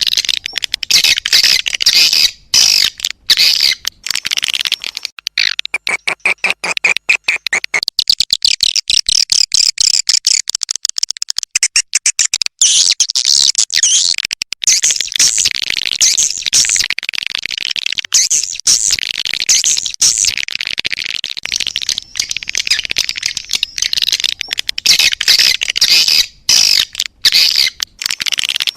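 Recorded swiftlet calls played as a lure-call track for a swiftlet house: a dense, loud run of rapid high twittering chirps and rattles, with a few brief breaks.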